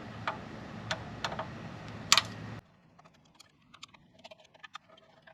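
Light clicks and knocks of hands working a metal cover off the bandsaw's starter, over a steady background hum. The loudest knock comes about two seconds in; soon after, the hum cuts off abruptly and only faint small clicks remain.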